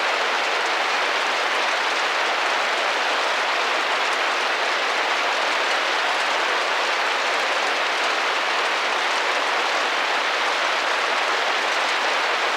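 Steady rain drumming on a window pane: a dense, even hiss of drops that holds unchanged throughout.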